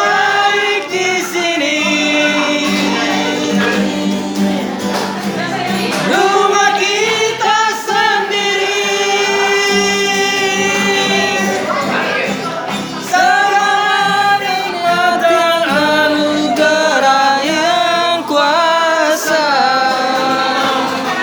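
A man singing a song to his own guitar accompaniment, holding some long notes.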